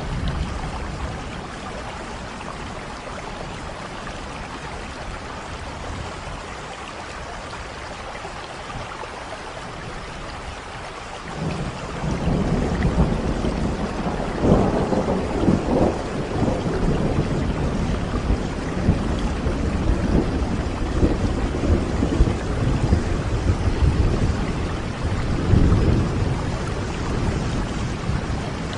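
Steady rain with thunder: a low rumble of thunder rolls in about twelve seconds in and swells twice over the rain.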